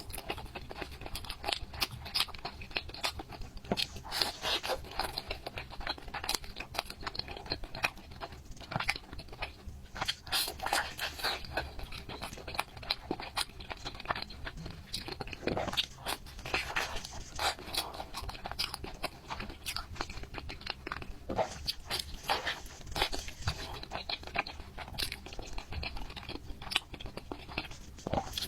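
A person biting and chewing chocolate cream cake, with many short, irregular clicks and crunches throughout.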